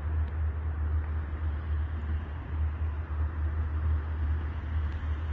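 Small boat under way: a steady low rumble with an even rushing noise of wind and water.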